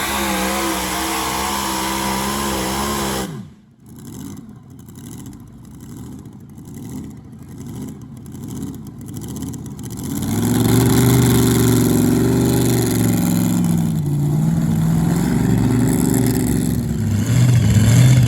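A super-modified pulling truck's engine running hard, then shut off abruptly a little over three seconds in, its pitch dropping away. About ten seconds in an engine comes back in, running with a wavering pitch and getting louder near the end.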